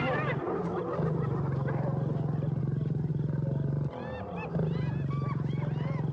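Lions growling continuously, a low steady snarl that breaks off briefly about half a second in and again around four seconds, over a clamour of spotted hyenas' high, rising-and-falling giggles and yelps as they fight over a kill.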